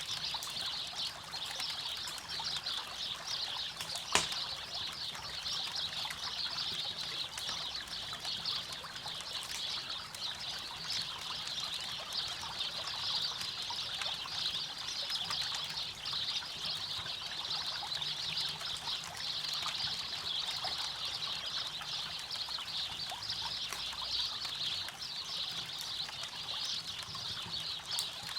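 River water running and babbling steadily, with campfire crackles: one sharp, loud pop about four seconds in and a few fainter ones.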